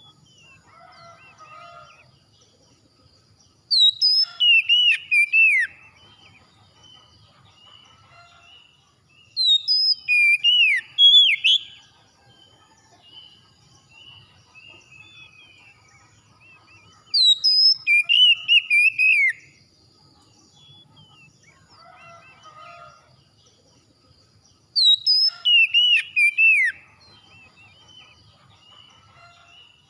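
A songbird singing loud, clear whistled phrases that sweep up and down, each about two seconds long, repeating about every seven seconds with softer chirps between them. It is birdsong played to get caged birds to start singing.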